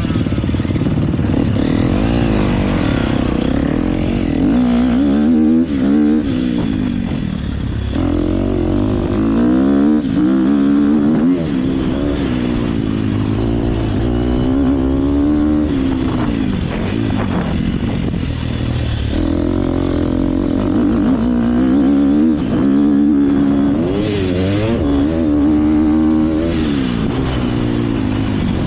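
KTM motocross bike engine ridden hard, revving up and down over and over as the pitch climbs and falls with the throttle.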